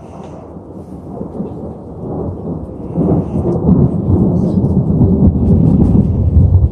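Loud rolling thunder rumbling, building over the first few seconds and loudest from about three seconds in.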